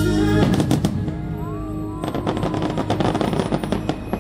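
The show's music stops about half a second in, followed by fireworks crackling: a quick cluster of sharp cracks, a few brief whistling glides, then a dense run of rapid crackles.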